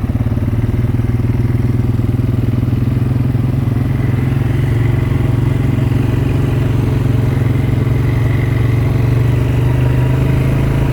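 ATV (four-wheeler) engine running steadily as the machine rides along a trail, an even, unbroken drone.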